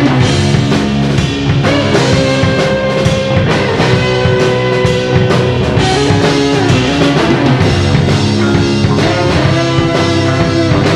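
Instrumental rock music with distorted electric guitar and a drum kit keeping a steady beat.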